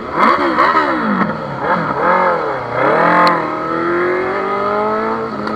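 High-revving superbike engine blipped up and down several times, then held in a slow, steadily rising rev.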